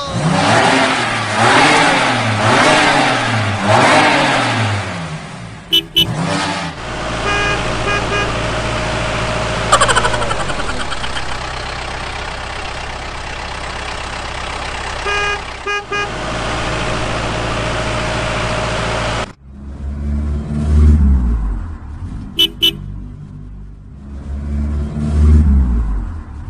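Vehicle engine revving up and down in swoops, then a steady engine drone, then lower surging revs near the end, with short horn beeps about 6, 16 and 22 seconds in.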